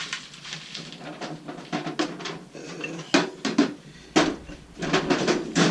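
Irregular clacks and knocks of tools being picked up and set down on a workbench, a few sharp, loud ones among softer rattling.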